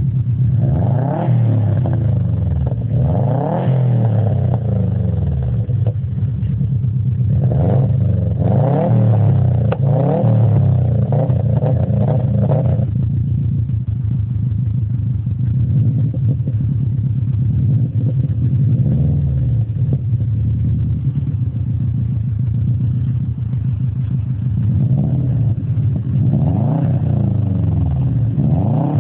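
Subaru Impreza WRX estate's turbocharged flat-four engine running through a custom stainless steel exhaust with an added silencer box. It is revved up and down repeatedly in the first dozen seconds, settles to a steady idle, then is revved a few more times near the end.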